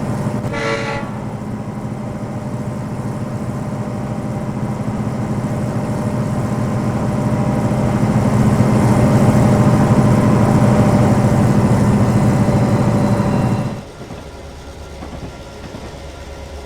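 A train gives a short horn blast, then runs steadily, growing louder for about ten seconds before the sound drops off abruptly near the end.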